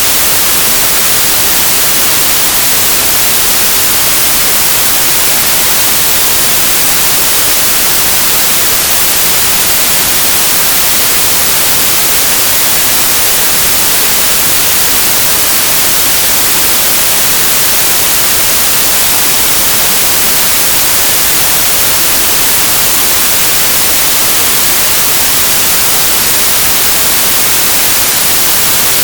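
Synthesized white noise: a steady, loud, even hiss, brightest in the treble, with no change.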